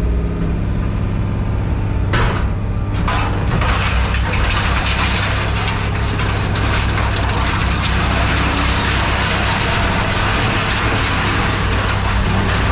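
A heavy machine's engine running steadily, with two sharp clanks about two and three seconds in, then a dense crackling and crunching of scrap metal being crushed.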